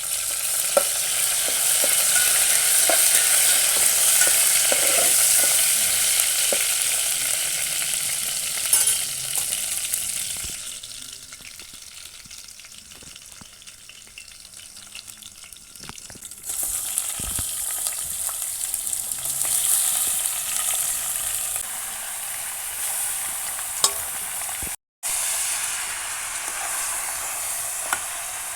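Food sizzling in hot oil in a cooking pot while it is stirred, with a few sharp knocks of the spoon. The sizzling is loud, drops quieter for several seconds in the middle, then comes back loud.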